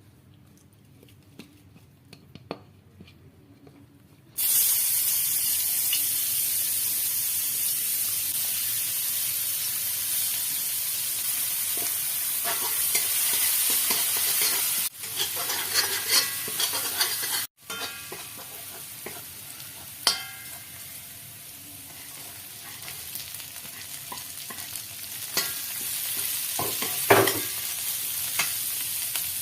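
Food frying in hot oil in a pan. A loud sizzle starts suddenly a few seconds in, then goes on more quietly, with a few short clinks of a utensil against the pan.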